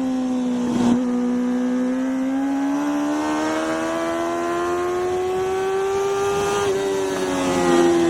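Racing motorcycle engine heard onboard under hard acceleration: the engine note climbs steadily for several seconds after a short break about a second in, then drops sharply near the end as the revs come down.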